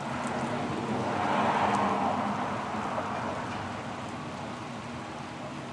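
Storm wind rushing ahead of a thunderstorm, swelling in a gust about a second in and easing off.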